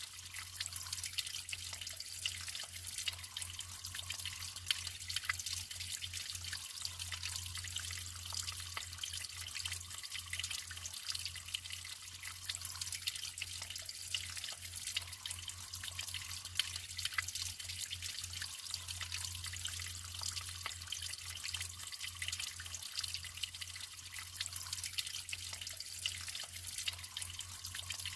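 Naturally flowing water trickling and splashing steadily, with many small drips and splashes over an even hiss and a low, fluttering rumble.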